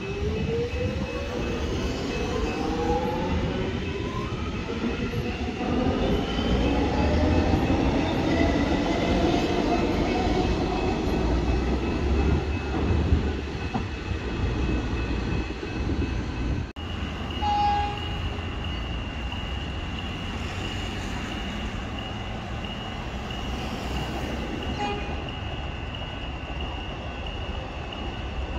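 Metro Trains Melbourne electric suburban train pulling out and accelerating away, its traction motors whining in several rising glides over heavy rail rumble. After a cut about 17 seconds in, a steady high tone holds over quieter rail noise as another train approaches.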